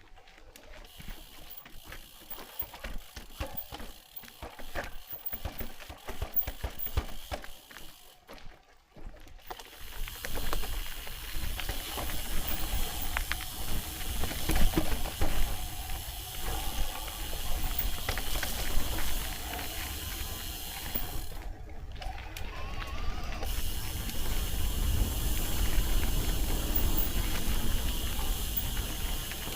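Footsteps crunching on a rocky mountain trail, over a steady hiss that becomes louder and more rumbling about ten seconds in.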